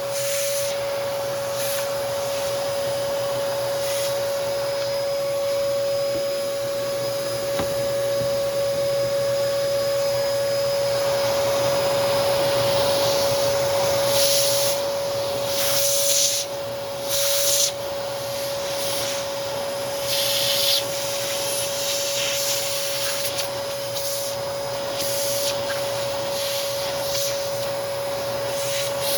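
Hoover Commercial PortaPower CH30000 vacuum running, vacuuming dust and residue out of an electric motor's housing: a steady motor whine over the rush of air. The airflow hiss surges and dips several times around the middle.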